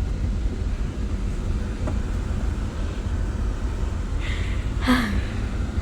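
Steady low rumble of outdoor background noise, with a short voice-like sound near the end.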